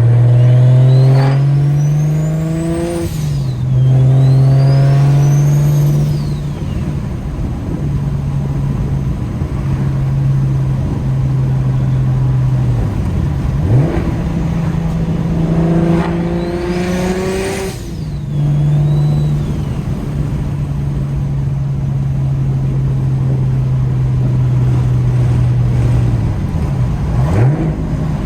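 BMW N54 3.0-litre inline-six with a DocRace single-turbo conversion, heard from inside the cabin. It accelerates hard through two quick gears, the engine note and a high turbo whistle both rising. It then runs at a steady engine speed, and another hard pull with rising turbo whistle comes about sixteen seconds in.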